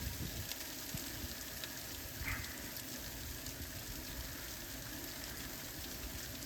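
Freezing rain and sleet falling steadily: a faint, even hiss with many tiny ticks of ice pellets landing.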